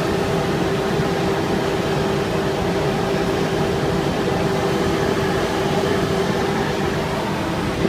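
Midea air conditioner condenser units running: a steady whirring noise with one constant hum held through it.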